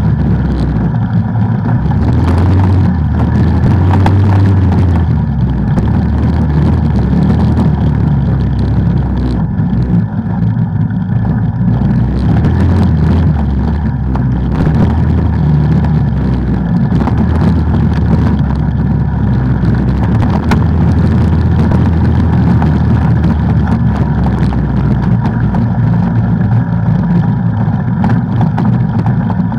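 ATV engine running loud while riding, its note shifting up and down with the throttle, with rattle and rushing noise over it.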